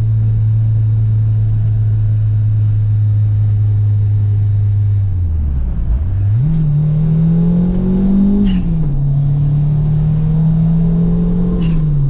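Turbocharged Honda B20 four-cylinder in a CR-V, heard from inside the car: it runs at a steady engine speed for about five seconds, the revs fall and then climb under acceleration, drop at a shift, hold, and fall again near the end. Each of the two drops carries a brief sharp sound.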